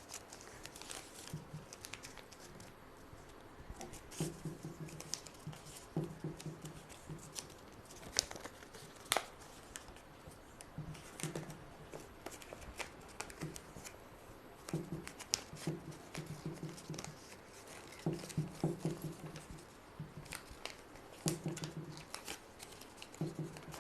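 Sheet of paper rustling and crinkling as it is folded and creased by hand, with scattered soft clicks and crackles. A faint low buzz comes and goes in short bursts.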